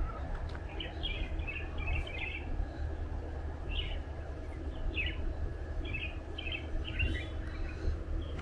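Birds chirping in short clusters of quick high notes, half a dozen times, over a steady low rumble.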